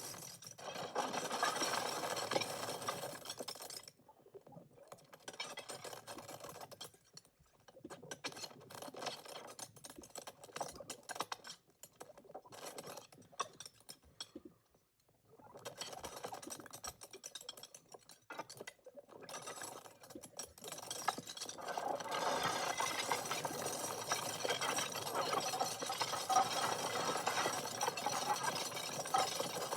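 Granular synthesizer output from a Pure Data patch: a dense, grainy texture of tiny sample fragments, its grain speed, pitch, size and sample position driven by FaceOSC face tracking. It breaks up with short dropouts through the middle, then grows fuller and steadier for the last third.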